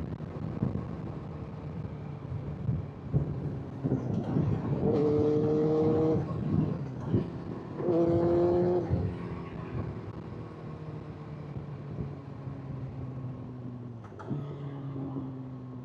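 Honda CBR600 inline-four engine running at highway speed. About five seconds in, it pulls hard twice, each surge a second or two long and climbing slightly in pitch before cutting off sharply. It then drops back to a steadier cruising note.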